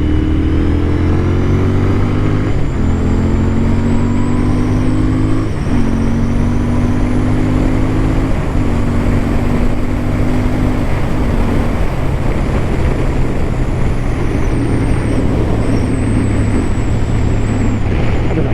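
Royal Enfield Continental GT 650's parallel-twin engine pulling through the gears: the pitch climbs and drops back at each of about four upshifts, then settles into a steady cruise. Wind rushes over the helmet microphone throughout.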